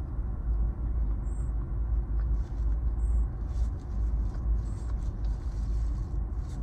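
Steady low rumble of a parked car's idling engine and ventilation, heard from inside the cabin.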